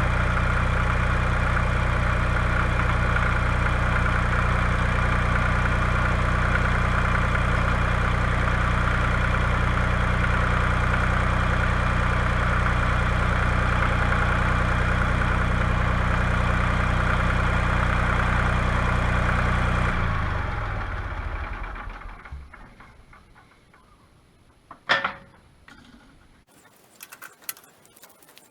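Tractor engine idling steadily, then switched off about two-thirds of the way through and running down over a couple of seconds. A single sharp knock follows near the end, with faint light rattles.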